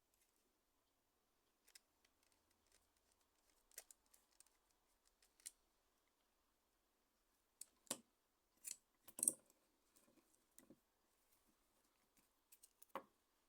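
Faint, scattered sharp clicks and taps of small hard objects being handled, in irregular groups. The loudest cluster comes about eight to nine seconds in.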